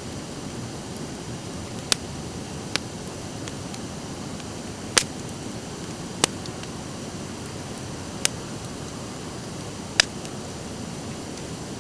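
Driftwood fire crackling: a steady hiss of burning broken by six sharp pops and snaps at uneven intervals, the loudest about five seconds in and near the end.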